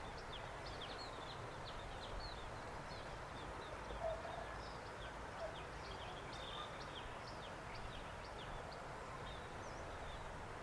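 Small birds chirping: many short, high calls falling in pitch, scattered irregularly over a steady outdoor hiss, with a brief louder sound about four seconds in.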